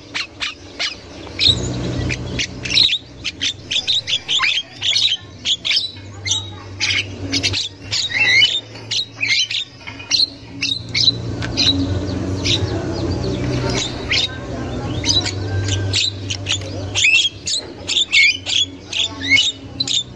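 Javan mynas calling without pause: rapid harsh squawks, chatters and short whistled notes, with a low hum underneath for much of it.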